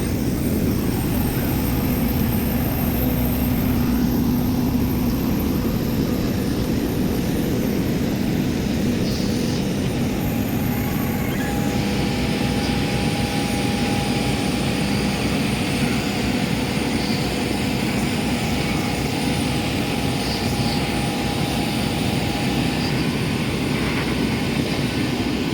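Boeing 737-800's CFM56 jet engines running steadily: an even rushing noise with a thin high whine, holding a constant level throughout.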